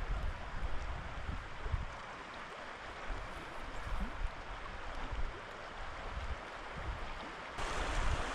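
A river running: a steady rush of water with low, uneven rumbles underneath. Near the end it switches suddenly to a louder, fuller rush.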